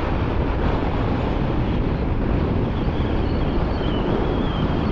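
Wind buffeting the microphone while riding a motorcycle in strong wind, a steady rushing roar over the bike's running noise. A faint wavering high whine comes in about halfway through.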